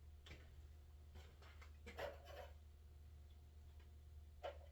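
Near silence: a steady low hum with a few faint clicks and scrapes.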